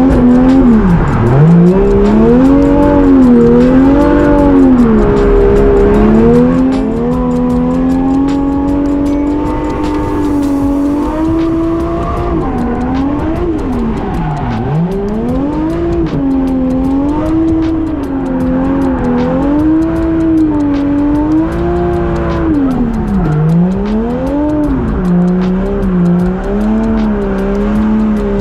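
Engine of a 450 hp single-turbo Toyota JZX100 drift car, revving up and dropping back over and over as it is driven hard. Its pitch swings up and down every few seconds, with three deep dips.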